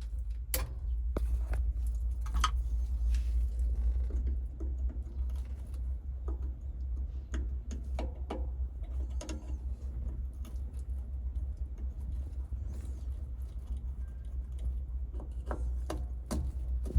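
Excavator's diesel engine running with a low, steady rumble, with scattered clicks and knocks over it.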